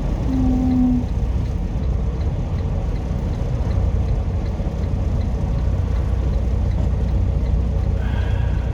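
Semi truck's diesel engine running at low speed, heard from inside the cab while the truck is maneuvered into a parking spot. A short low tone sounds about half a second in, and a brief higher tone near the end.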